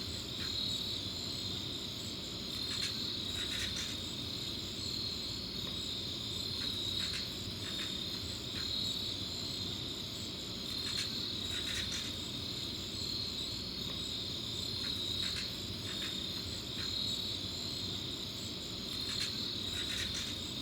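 Night insects chirping steadily in a high continuous trill, with shorter separate calls breaking in every second or two over a low background rumble. This is the unidentified sound that the recording asks about.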